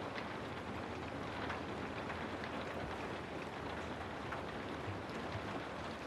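Steady rain-noise ambience: an even hiss of rainfall with scattered faint drop ticks.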